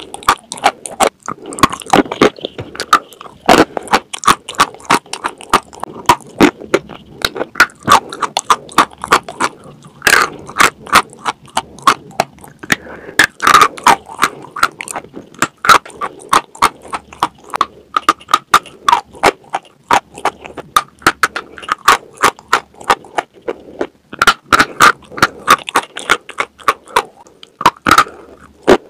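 Dry chalk being bitten and chewed close to a clip-on microphone: a dense, continuous run of sharp, crackly crunches.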